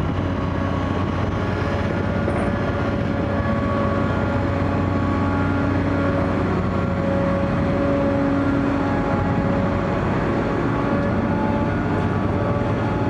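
Komatsu PC800 hydraulic excavator's diesel engine running steadily, a low drone with faint higher tones that swell and fade.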